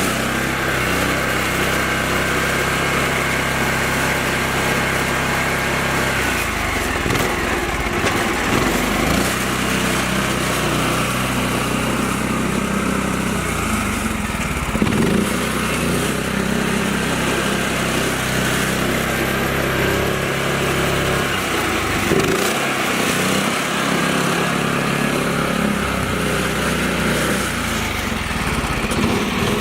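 Small mini tractor engine running steadily, its pitch dipping and recovering several times as it works under load.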